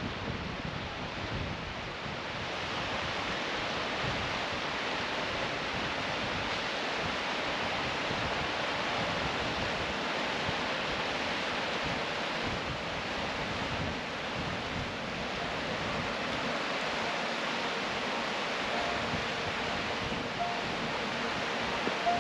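Steady, even rush of a glacial river flowing through a basalt-column canyon, with a little wind on the microphone.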